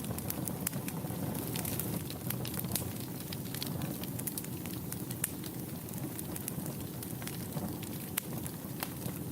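Wood fire burning in a fireplace, a steady low rumble of flame with irregular sharp crackles and pops, several a second.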